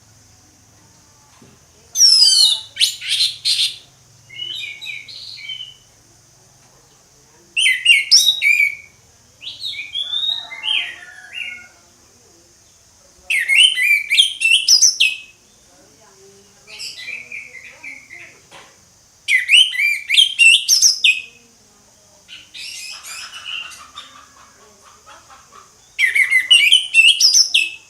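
Orange-headed thrush singing its full, loud song: about nine phrases of fast, rising and falling whistled notes, each under two seconds with short pauses between, loud phrases alternating with softer ones. A steady faint high hiss runs underneath.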